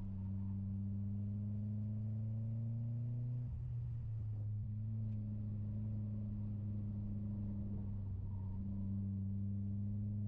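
Mitsubishi Lancer Ralliart's turbocharged four-cylinder engine under way, heard from inside the cabin: a steady drone whose pitch climbs slowly, breaks off briefly about a third of the way in, then climbs again near the end.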